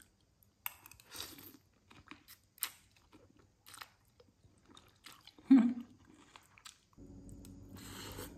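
Close-up eating sounds of a person chewing mouthfuls of glass-noodle soup with vegetables: soft wet clicks and mouth noises, with one louder brief mouth sound about halfway through. A steady low hum comes in near the end.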